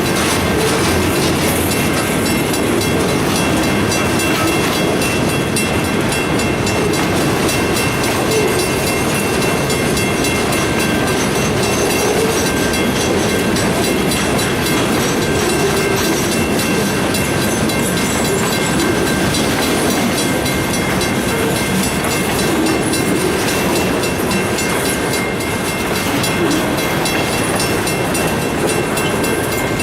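Freight train rolling past, its cars' wheels clattering over the rail joints in a steady, continuous rumble.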